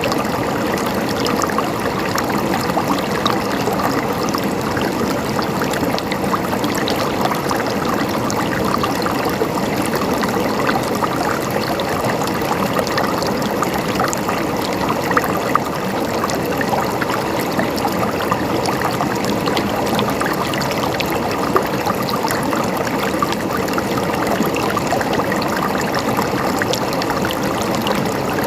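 River water flowing and splashing over rocks, a steady dense rush with fine trickling detail.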